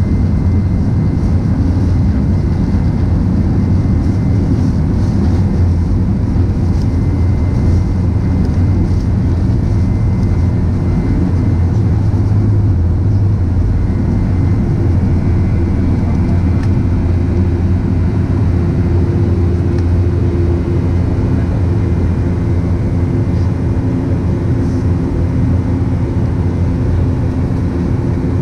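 Steady low rumble of engine and airflow noise inside the cabin of a Boeing 737-900 with CFM56-7 engines, with a faint droning hum that grows a little stronger past the middle.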